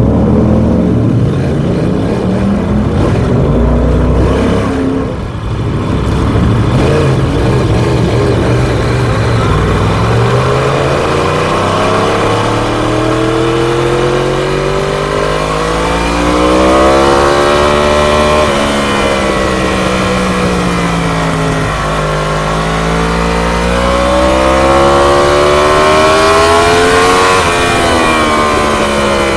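Onboard sound of an ST1000 superbike's engine lapping a race circuit: its pitch climbs steadily under acceleration, falls away, climbs again and falls near the end, with wind rushing over the microphone.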